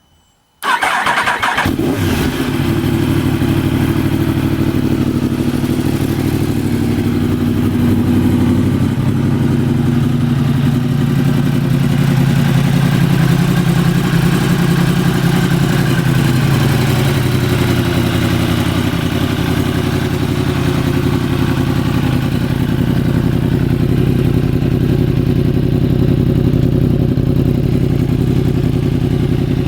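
2015 Yamaha R1's crossplane inline-four, fitted with an Akrapovic slip-on and a Scorpion de-cat link pipe, starting up. It catches suddenly about half a second in, then idles loud and steady.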